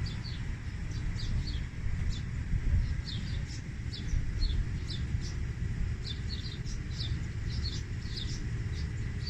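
Small birds chirping in short, quick calls, several a second, over a steady low rumble.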